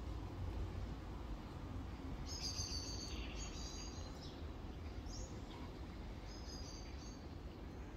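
Small birds chirping: clusters of short, high notes, the busiest about two to three and a half seconds in and again near the end, over a low steady outdoor rumble.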